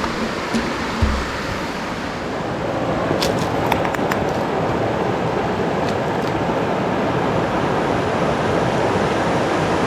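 Steady rush of flowing water from a creek or waterfall, with a few faint clicks a few seconds in.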